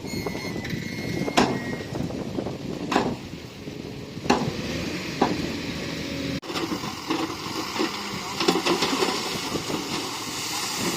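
Crawler bulldozer working: its diesel engine runs under load while sharp metallic clanks come every second or so, with a brief high squeal in the first couple of seconds.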